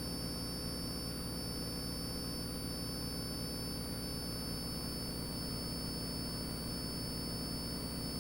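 Steady drone of a light single-engine piston airplane's engine at approach power, heard in the cockpit through the headset intercom, with a thin steady high electrical whine over it.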